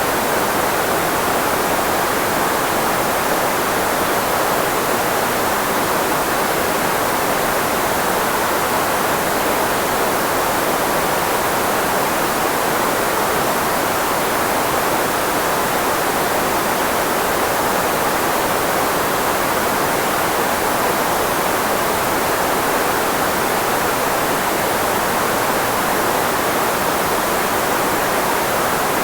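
Steady filtered white noise, a constant hiss strongest in the middle of the range and weaker in the bass, shaped to mask the frequencies of human speech.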